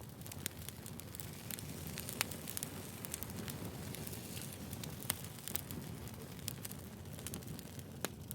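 Firewood logs burning, with a steady low rumble of the fire and irregular sharp crackles and pops scattered throughout.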